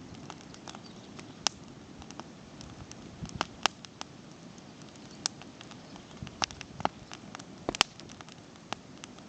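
Campfire crackling: irregular sharp pops and snaps over a low steady hiss.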